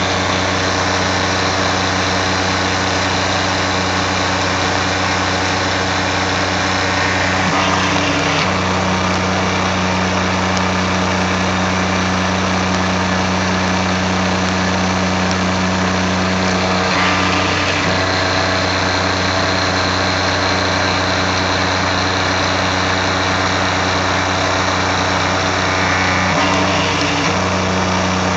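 Tormach 770 CNC mill cutting steel with a half-inch three-flute solid carbide end mill at 2,000 rpm: a steady machining hum and whine. The tone shifts briefly three times, roughly every nine seconds.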